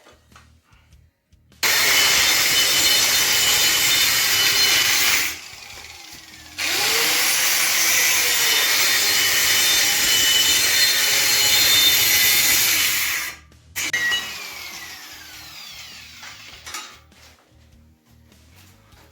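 Angle grinder cutting metal in two long passes with a short pause between, then a brief burst and the disc winding down.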